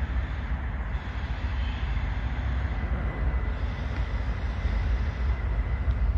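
Diesel locomotives of an approaching freight train, a steady low rumble.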